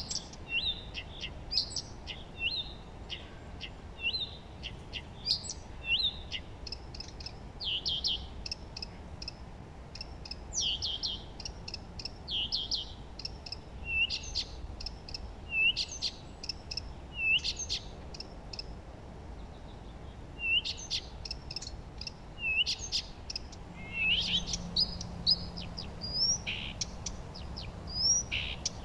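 Songbirds chirping and singing: short high notes and quick rising whistles, repeating every second or so, over a faint steady low background hiss.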